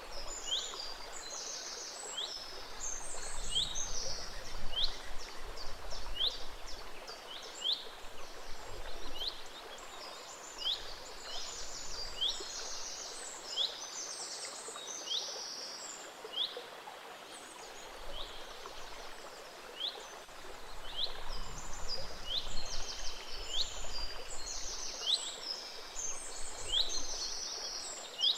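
Many songbirds chirping and trilling in a dense chorus of short, high notes over the steady wash of a gentle stream.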